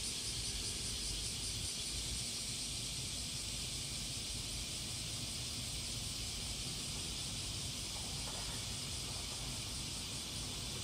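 Steady, high-pitched outdoor insect chorus with a low rumble underneath.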